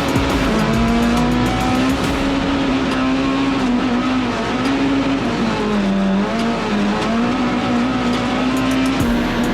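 Rallycross race car engine running hard at a steady high pitch, dipping briefly about six seconds in before rising again, over tyre and track noise.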